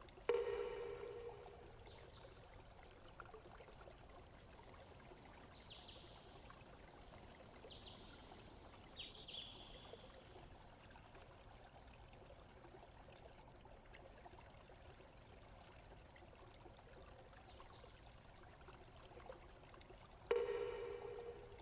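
Faint, steady running water, with a few short high chirps scattered through. A sharp ringing tone strikes just after the start and again near the end, fading out over a second or so each time.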